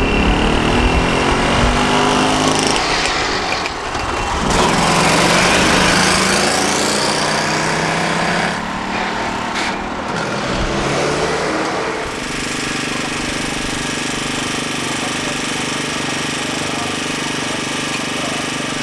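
Engines of vintage three-wheeled trucks: a Daihatsu Midget MP runs and revs, its pitch rising and falling as it drives, then about twelve seconds in the sound changes abruptly to a Mazda K360's air-cooled V-twin running at a steady pace.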